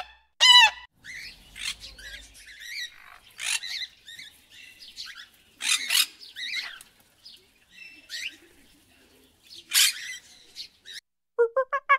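A black swan gives one honking call, then budgerigars chatter with short chirps, warbles and squawks. Near the end a fast run of evenly repeated calls begins.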